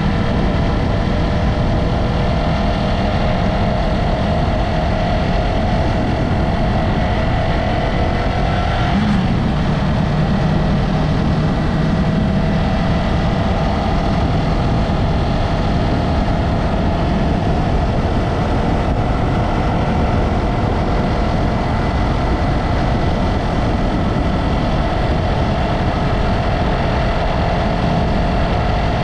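Yamaha MT-03's parallel-twin engine running steadily while under way, with road and wind noise underneath. About nine seconds in the engine note briefly changes pitch, then settles again.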